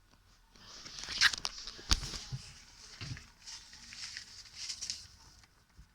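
Large sheets of paper being handled and folded: irregular rustling and crinkling with a few sharp snaps, the loudest about two seconds in.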